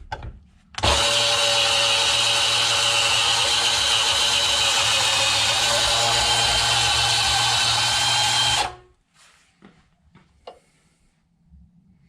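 A power tool cutting steel angle iron. It starts about a second in, runs loud and steady for about eight seconds, then cuts off.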